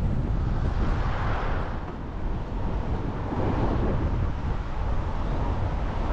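A moving car's road and wind noise, with wind buffeting the microphone: a deep rumbling rush that swells and dips in gusts.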